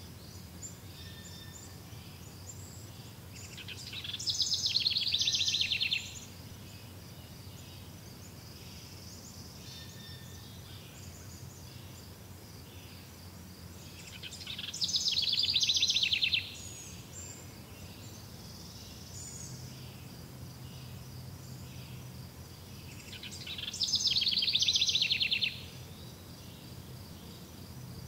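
A songbird singing three loud, rapid trilled phrases about ten seconds apart, each lasting about two seconds and swelling as it goes. Between them, faint chirps sound over a steady low background hum.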